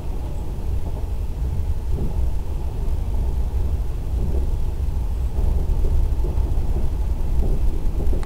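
Electric train running after pulling away: a steady low rumble that grows slightly louder in the last few seconds.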